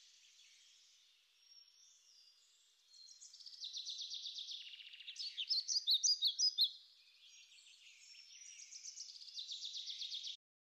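Birdsong. It is faint for the first few seconds, then a run of rapid high trills and chirps is loudest around the middle, and another trill swells near the end.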